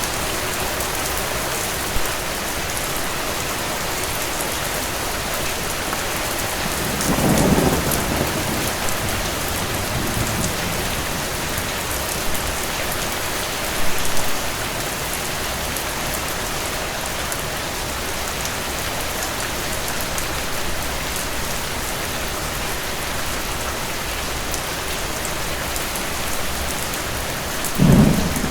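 Steady rain falling. Low rolls of distant thunder come about seven seconds in, briefly near the middle, and again right at the end.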